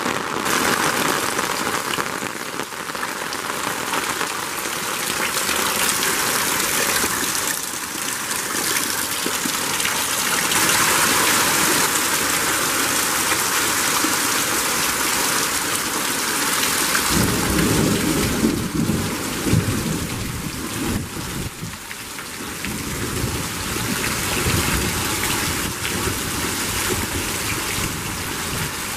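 Heavy rain pouring down steadily onto the ground and leaves during a thunderstorm. A little over halfway through, a low rumble of thunder rolls in for several seconds.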